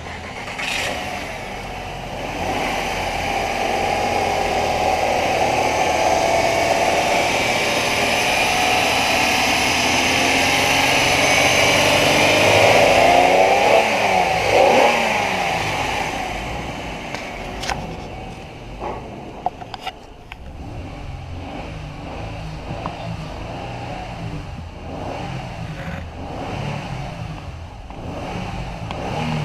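2007 Honda Odyssey's 3.5-litre V6 engine running, revved up with the pitch rising and falling about halfway through, then settling back to a quieter idle, with a few sharp clicks soon after.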